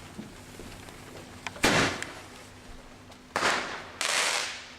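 Fireworks going off. There is a sharp bang about a second and a half in, then two more close together near the end, each trailing off in a short hiss.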